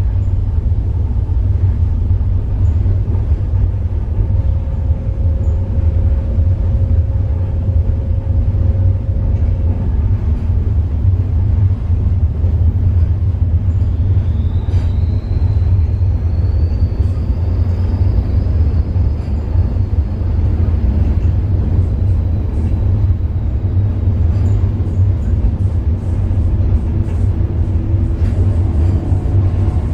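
Passenger train rolling on rails, heard from inside the lower deck of a coach: a steady low rumble, with a faint high whine that rises a little about halfway through and then fades.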